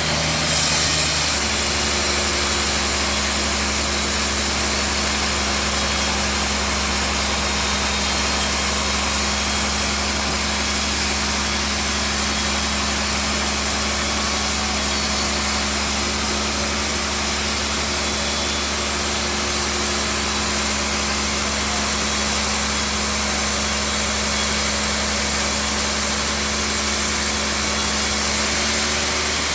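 Sawmill bandsaw machinery running steadily with a constant low hum and hiss, with a brief louder burst about half a second in.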